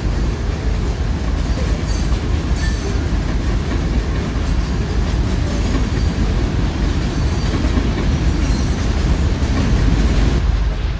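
A train rolling past with a steady, heavy rumble, its wheels clicking now and then over the rails.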